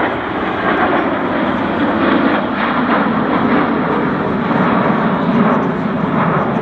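Airbus BelugaXL's twin Rolls-Royce Trent 700 turbofans in a flypast: a loud, steady jet rumble and roar.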